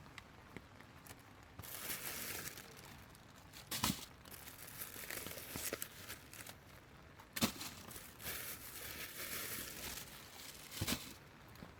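Plastic crinkling and rustling in several spells, as plastic grocery bags and a plastic raincoat are handled, with three sharp knocks in between.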